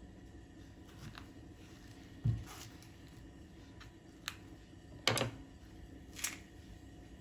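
A few separate knocks and clicks of things being handled and set down, four in all, the one about five seconds in the loudest, over a faint steady room background.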